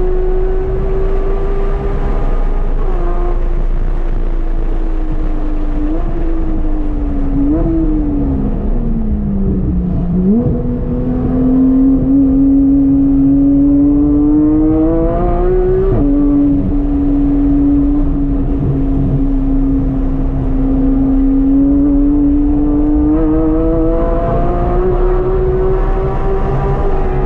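Porsche 991.1 GT3's naturally aspirated flat-six, with an aftermarket exhaust and stock cats, running hard on track. The engine note falls with a few quick downshift blips to its lowest about ten seconds in, climbs steadily under acceleration, drops sharply at an upshift near sixteen seconds, holds, then climbs again near the end.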